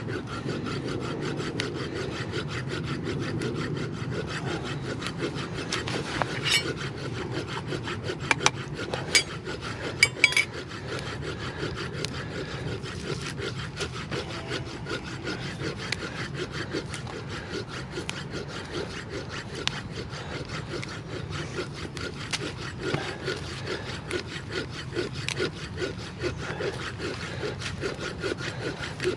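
Wood being sawn by hand: steady back-and-forth rasping strokes. A few sharp clicks come through about a third of the way in.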